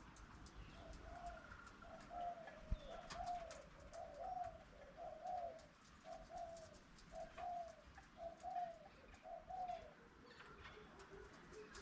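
A bird calling a run of about nine short, alike cooing notes, roughly one a second. There is a single sharp click about three seconds in.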